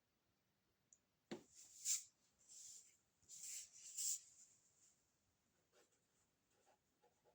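A drawing tool scratching across paper in a run of quick strokes, starting about a second in and lasting about three seconds, then only faint scratches.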